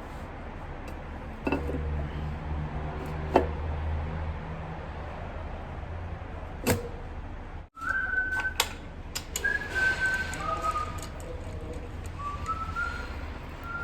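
A few sharp metallic clicks of tools over a low workshop hum, then after a short break a person whistling a tune in short steady notes that step up and down in pitch, with more clicks among them.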